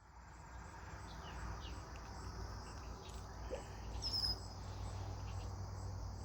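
Outdoor ambience of insects chirring steadily, with a few faint bird chirps and a short high chirp about four seconds in, over a low rumble.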